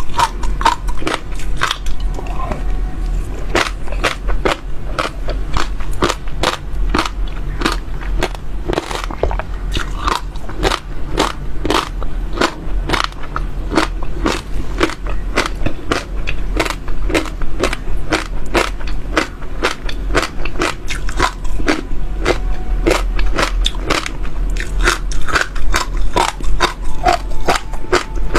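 Close-miked crunching of seeds cracked between the teeth, a steady run of sharp crisp cracks a few times a second, over a low steady hum.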